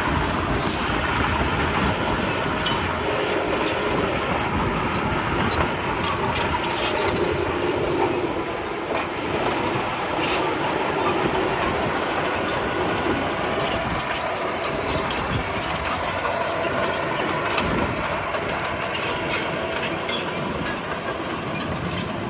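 Komatsu D31P crawler bulldozer running steadily, its diesel engine going and its steel tracks clattering, with many short clicks and knocks throughout.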